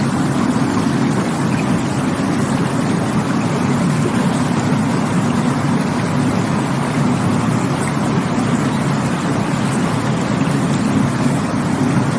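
Rushing water, a steady, deep, unbroken rush without pauses or distinct splashes.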